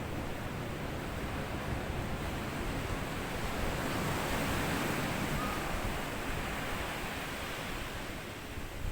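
Sea waves washing onto a sandy beach. One surge of surf swells to a peak about halfway through, then washes back and fades.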